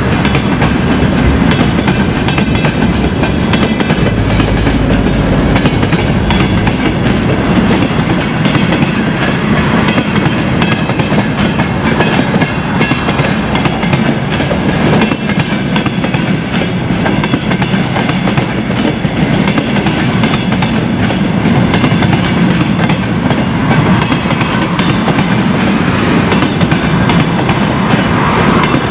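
Freight train passing close by at speed, open gondola wagons and then flatcars: a loud, steady rumble of steel wheels on rail with dense clickety-clack from the wheels crossing rail joints.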